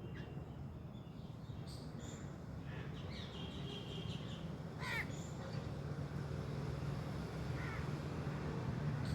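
Birds calling outdoors: a few short, separate calls, the clearest about five seconds in, over a steady low background hum.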